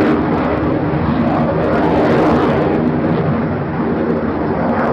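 Aircraft engine noise at an airshow: a loud, steady rush with a pitched hum running through it.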